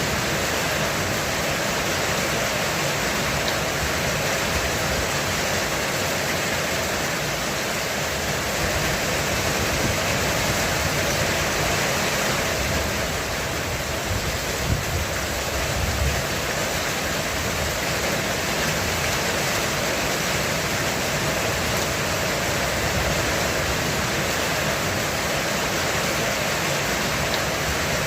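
Heavy rain falling steadily on a roof, an even hiss of countless drops with no let-up. Around the middle there is a brief low rumble.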